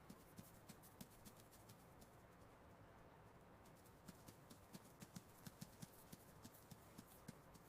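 Faint scurrying of a mouse's feet: quick, irregular light taps and clicks, several a second and busier in the second half.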